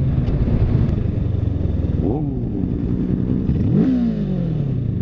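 Motorcycle engine revved twice, each time the pitch rising sharply and then falling away, over a steady engine note.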